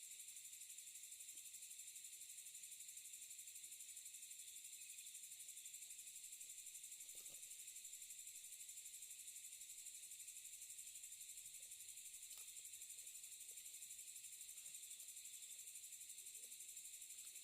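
Faint, steady chorus of night insects, a continuous high trill with a fine rapid pulse.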